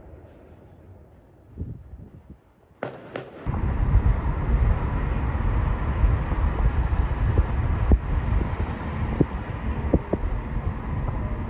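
Fireworks display: a few separate bangs in the first three seconds, then from about three and a half seconds in, a continuous rumble of many bursts with scattered sharp pops.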